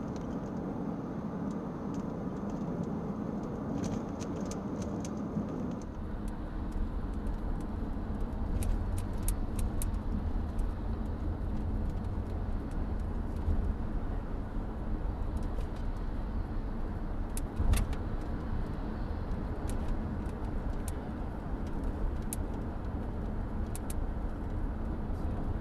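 Road noise of a car being driven, picked up by a dashcam: a steady low engine and tyre rumble with scattered light clicks and one sharper click about eighteen seconds in. The sound changes about six seconds in.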